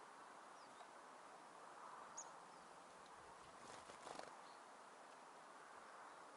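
Faint outdoor background hiss with a few brief, high-pitched calls from small songbirds at a winter feeder, the clearest about two seconds in, and a short rustle about four seconds in.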